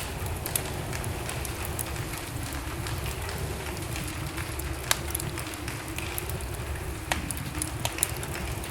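Wood fire burning in a fireplace: a steady low rush of flames with scattered sharp crackles and pops, the loudest pop about five seconds in.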